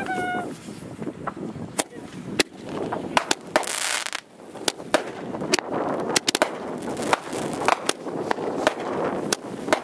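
Fireworks going off: irregular sharp cracks and pops throughout, with a brief hiss about four seconds in.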